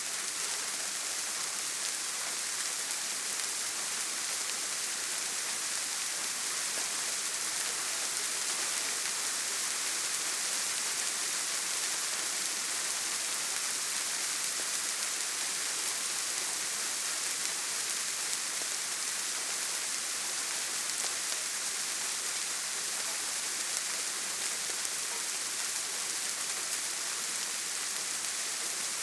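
Steady rain falling on a tin roof: an even, unbroken hiss with no thunder.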